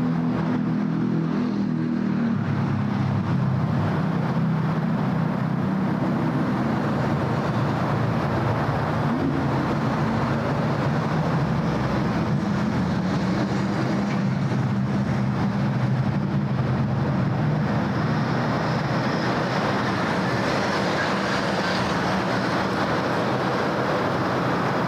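City road traffic: a steady wash of tyre and engine noise, with the low hum of vehicle engines running close by.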